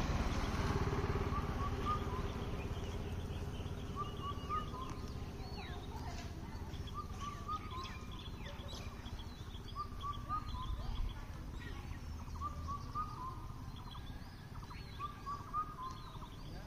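Birds calling in short chirping phrases that repeat every couple of seconds, over a low rumble that slowly fades.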